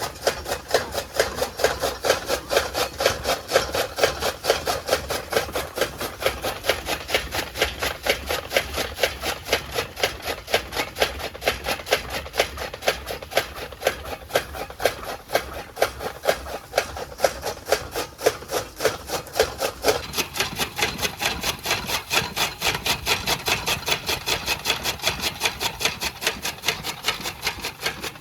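Tokka chaff cutter chopping fodder: its blades cut through the stalks in a steady, even rhythm of rasping strokes, about three a second.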